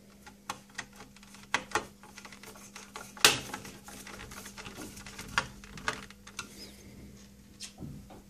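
Irregular small clicks and metal taps of hand tools and screws on a computer power supply's sheet-metal case as it is taken apart, with one louder clank about three seconds in. A steady low hum runs underneath.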